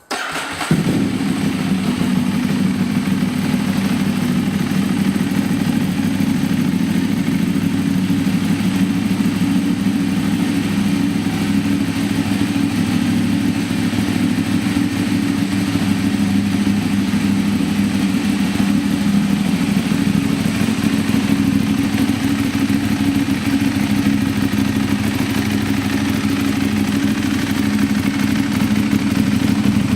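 Ducati 1098R superbike's V-twin engine firing up and settling into a steady, fairly high idle, which the owner puts at about 1550 rpm.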